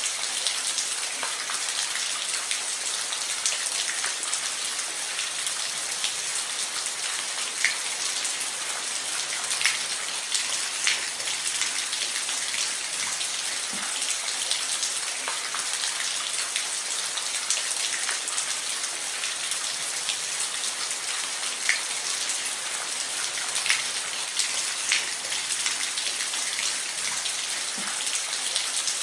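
Steady rain falling on a roof, an even hiss with scattered louder single drops ticking now and then.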